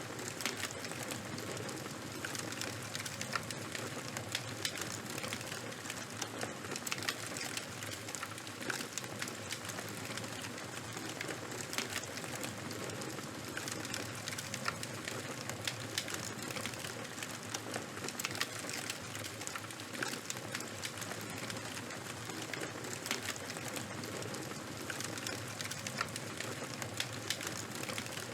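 Wood fire crackling: a steady hiss with many small sharp pops and snaps at irregular moments.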